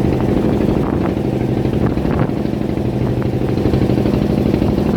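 A fishing boat's engine running steadily at an even speed, a loud, fast-pulsing drone heard from on board.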